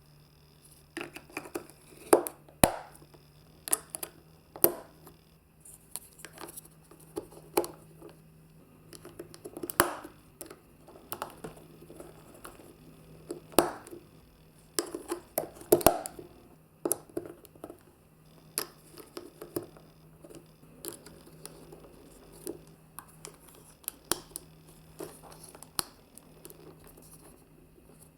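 Hard plastic toy marble run pieces clicking and knocking irregularly, with a faint steady hum beneath.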